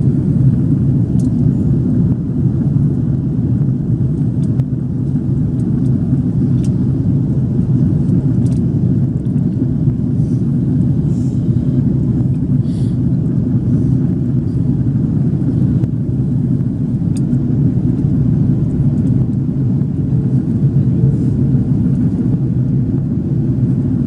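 Steady low rumble of a Swiss Airbus A330-300 heard from inside the passenger cabin: engine and airflow noise, with a few faint ticks.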